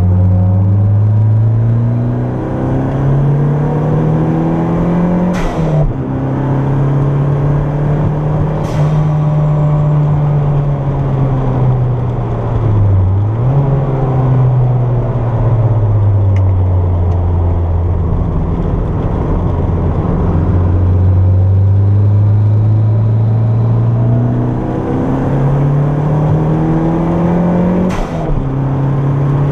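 Turbocharged Toyota MR2's four-cylinder engine heard from inside the car while driven hard on track. The engine note climbs under throttle, drops back at a gear change with a sharp click about five seconds in, falls and rises again around the middle, and climbs to another click and gear change near the end.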